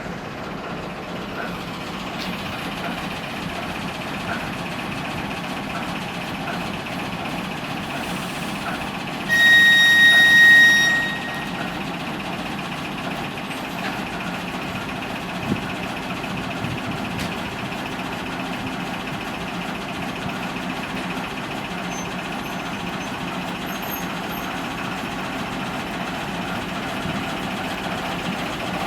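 Steady running noise of a train, with a high single-pitch whistle sounding once for about a second and a half about a third of the way in.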